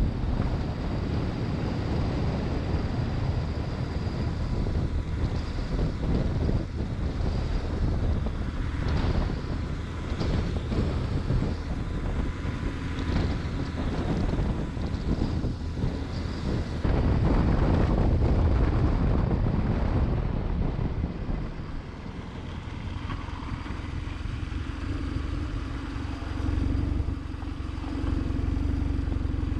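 BMW GS motorcycle under way, its engine running beneath heavy wind noise. About two-thirds of the way in the wind eases and a steady engine hum comes through, then the sound builds again near the end.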